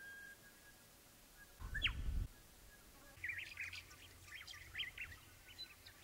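Birds calling: a single whistle sliding downward about two seconds in, over a brief low rumble, then a run of quick chirps and short whistles from about three seconds in.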